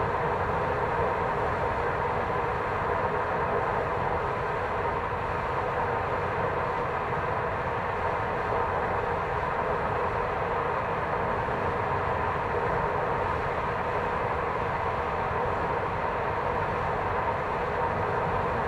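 BMW B48 2.0-litre turbocharged four-cylinder engine running at a steady, unchanging speed, heard from a microphone inside the engine bay. It holds an even, constant drone with no revving.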